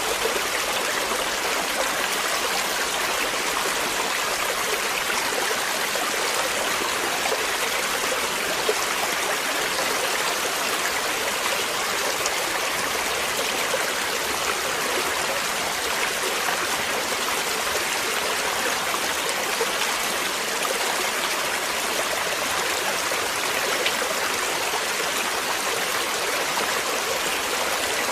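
Flowing water, a steady rush of a stream or small falls, even throughout.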